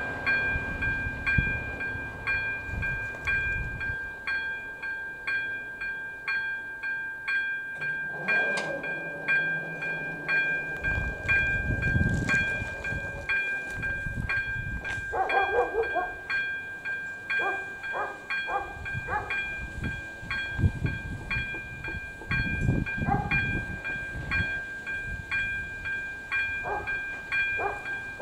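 A level-crossing warning bell (ZV-02 electronic bell) ringing steadily at about one and a half strokes a second while a train passes over the crossing. A low engine hum is heard first; from about 11 seconds in come rumbling and wheel clacks over the rail joints, with brief wheel squeals.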